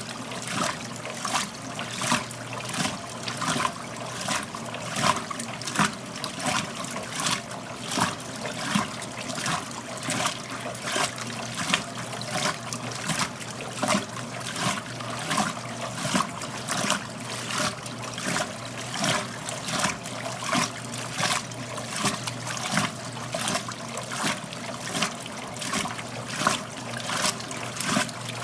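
1969 Westinghouse front-loading washing machine mid-cycle: the drum turns wet clothes, water splashing in an even rhythm about twice a second over a steady low motor hum.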